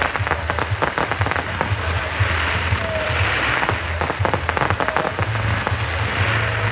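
Fireworks going off continuously: dense crackling with many sharp pops over a steady low rumble.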